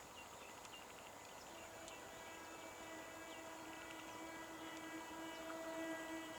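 A distant electric multiple unit (EMU) local train approaching, heard as a steady hum of several tones that fades in about a second and a half in and grows louder.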